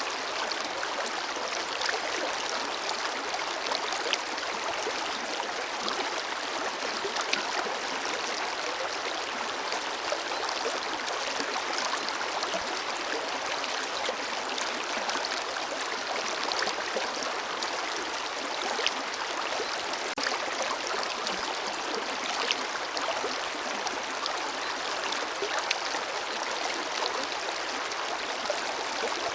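Forest river flowing steadily over rocks: a continuous rush of water with fine splashing and gurgling.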